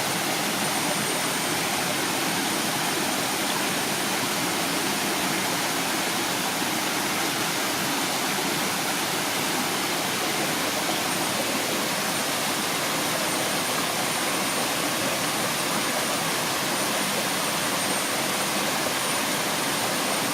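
Waterfall: water crashing and rushing as a steady, even roar with no change.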